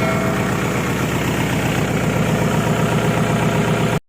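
Kubota L5018 tractor's four-cylinder diesel engine running steadily with an even low chug. The sound cuts off abruptly near the end.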